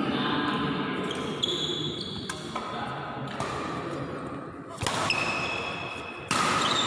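Badminton rally in an indoor hall: sharp knocks of rackets hitting the shuttlecock, with short high squeaks and a background of hall voices.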